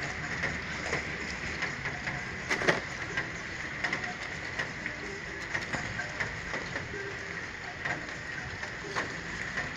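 Rain falling steadily, with irregular sharp drips striking a nearby surface, the loudest about two and a half seconds in.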